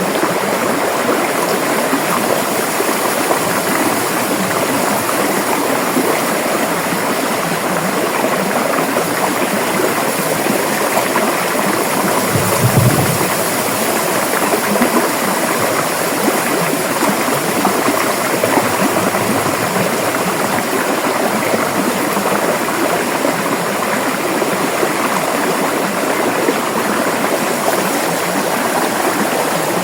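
River water flowing and splashing in a steady, full rush, with a brief low surge about halfway through.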